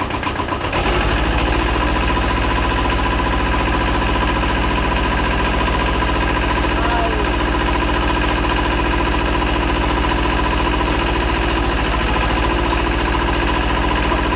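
Tractor engine running steadily. About a second in it steps up to a louder, faster note and holds there, as when the tractor is worked to drive the hydraulic cylinder of a homemade log splitter.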